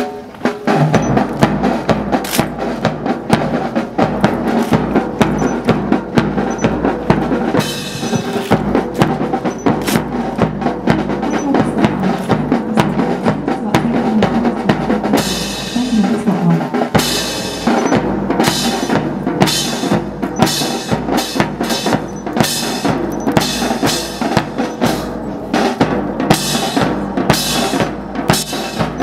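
Marching drum corps playing, snare and bass drums beating a steady cadence with rolls; it comes in suddenly and loudly right at the start.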